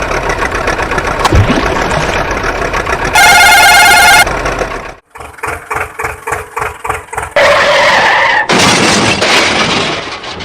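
A sequence of cartoon vehicle sound effects: engine noise, a loud pitched tone lasting about a second, a rhythmic ticking about four times a second, then a screech and a long, loud rushing noise like skidding.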